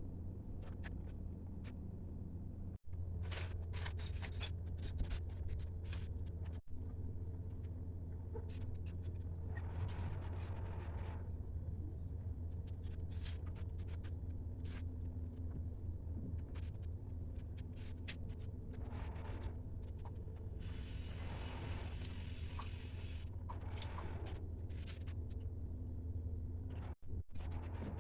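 Paper being handled and worked: intermittent rustling, scraping and small clicks over a steady low hum.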